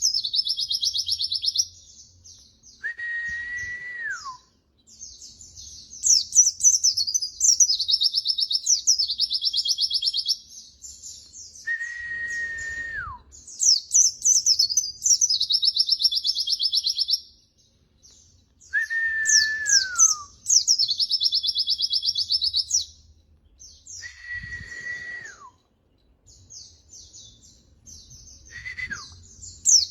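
White-eyes (pleci) singing in quick, high chirping and trilling phrases, as on a masteran training recording. Five times a lower, clear whistle is held for about a second and then slides down in pitch.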